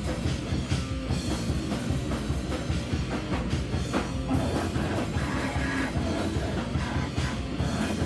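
Live band playing loud, distorted rock with a pounding drum kit and guitar.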